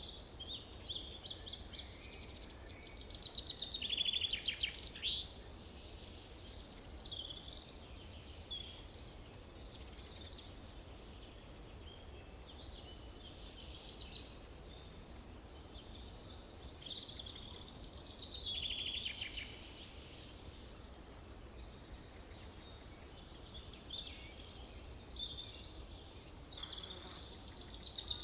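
Forest birds singing: several birds overlapping in chirps, whistled phrases and fast trills, the loudest trills about four seconds in, around nineteen seconds, and at the end, over a steady low rumble.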